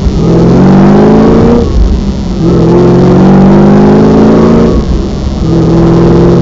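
Supercharged 6.0-litre V8 of a 2010 Holden VE SS Sportwagon accelerating hard, heard from inside the cabin: the engine note climbs in pitch through each gear, drops at two upshifts about one and a half and about five seconds in, then runs steadier near the end.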